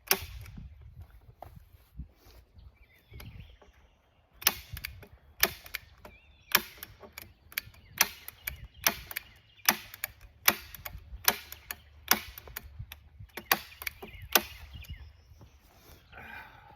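Heavy-duty manual staple gun firing staples through plastic sheeting into a wooden frame: a series of sharp snaps, about one a second, most steady from around four seconds in.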